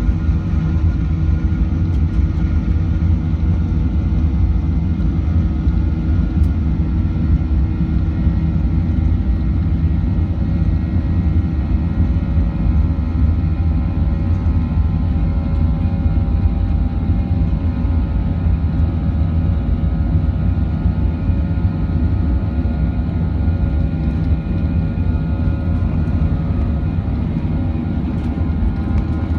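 Inside the cabin of a Boeing 737-900, its CFM56-7B jet engines running: a deep, steady drone with several steady engine tones above it, holding even in pitch and loudness.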